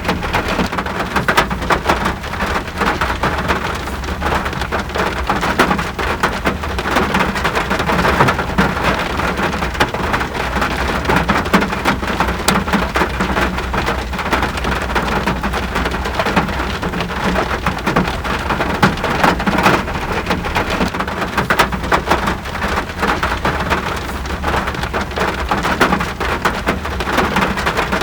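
Steady heavy rain: a dense patter of drops on surfaces that swells and eases every few seconds, over a low steady rumble.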